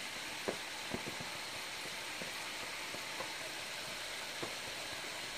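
Hot oil sizzling steadily as food fries on the stovetop, with a few faint ticks.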